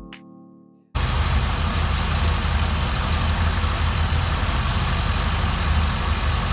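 Background music fades out, and about a second in it cuts abruptly to the 2008 Impala SS's 5.3-litre V8 idling steadily, running on freshly installed AFM lifters.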